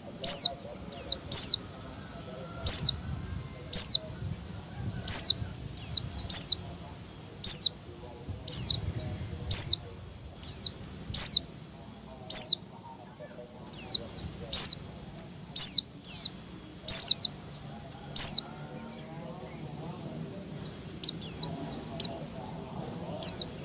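White-eye (pleci) giving agitated, noisy calls: short, sharp, high notes that sweep down in pitch, repeated about once a second. After a pause the notes come back fainter near the end.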